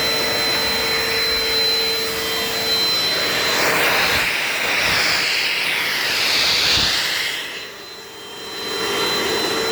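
Dirt Devil Dynamite Plus vacuum cleaner running with a steady whine. Partway through the whine gives way to a louder rushing noise that shifts in pitch. Near the end the sound drops away briefly, then the whine comes back.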